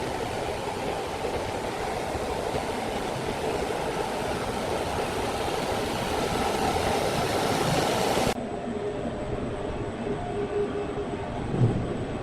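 Sawmill saw and log carriage running, a dense steady mechanical noise of the saw cutting through a log. About eight seconds in the sound cuts abruptly to a quieter, steadier machine hum with a steady tone, and there is a thump near the end.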